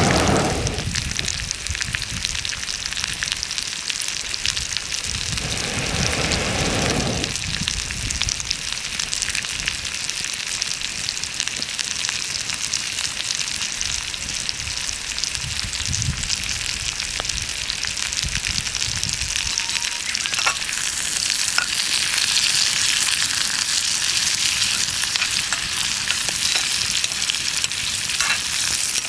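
Food frying in a pan over a campfire: a steady sizzle that grows louder about two-thirds of the way through, with a few small pops. There are two brief low rumbles, one at the very start and one about six seconds in.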